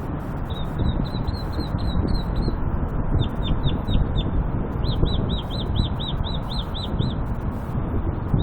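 A songbird singing in runs of short, quickly repeated notes: one phrase repeated about eight times, then a few falling notes, then a longer run of about a dozen arched notes, over a steady low background rumble.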